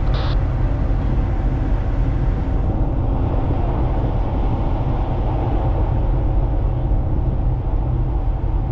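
Ship's diesel engine running steadily: a loud, constant low drone with a steady hum.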